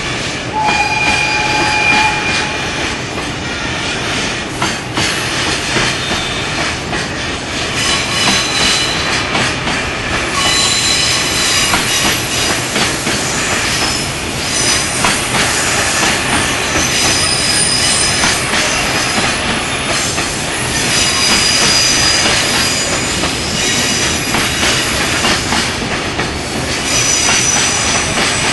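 Koki container wagons of a JR Freight train rolling past on the track, their wheels squealing in high tones that come and go over a steady rumble and clatter of the wheels.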